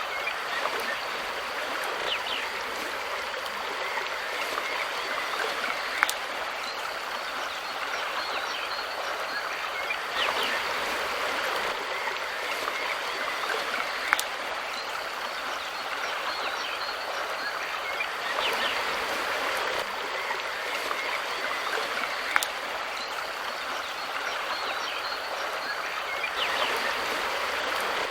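Mountain river flowing: a steady rush of water that swells slightly every eight seconds or so, with a few sharp clicks.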